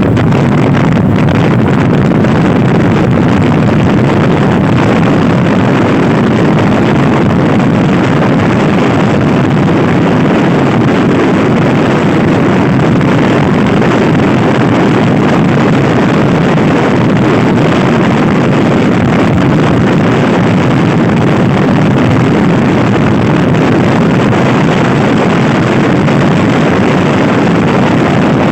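Loud, steady wind buffeting on the microphone while riding a Honda Scoopy-i scooter at speed, with vehicle noise mixed underneath.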